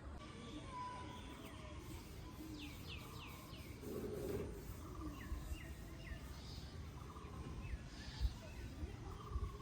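Outdoor ambience of small birds calling in quick series of short, falling chirps, over a steady low rumble.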